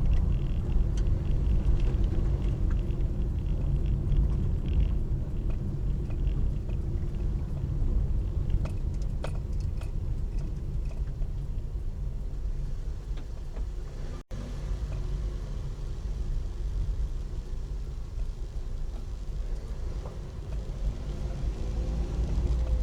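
Steady low rumble of a car driving, with road and engine noise, broken by a split-second dropout partway through.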